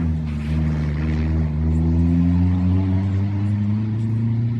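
Rally car engine running steadily on the stage, its pitch sagging slightly and then rising again near the end as the car accelerates.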